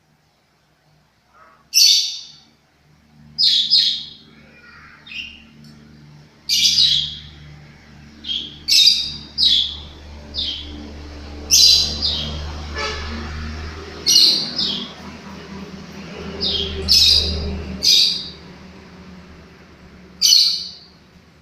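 Lovebird giving short, sharp, high-pitched calls, repeated every second or two, some in quick pairs.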